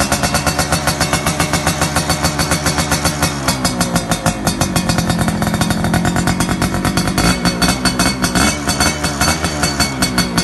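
Two-stroke underbone motorcycle running loud through a TNX racing exhaust, held at high revs with a rapid pulsing beat and the pitch wavering up and down a little.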